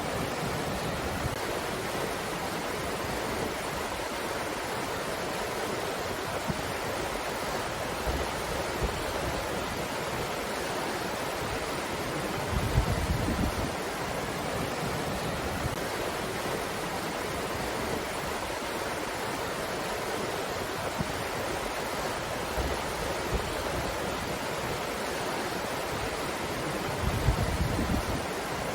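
Breeze blowing as a steady, even rushing hiss, with short low rumbling gusts on the microphone about halfway through and again near the end.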